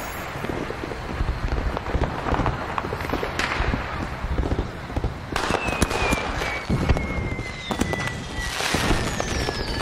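Fireworks going off: a run of sharp bangs and crackles, with a thin whistling tone that slowly falls in pitch through the second half.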